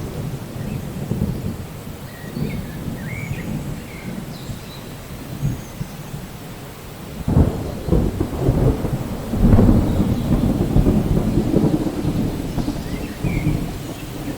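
Steady rain with a thunderstorm: about seven seconds in a roll of thunder breaks in and rumbles, loudest a couple of seconds later, over the rain.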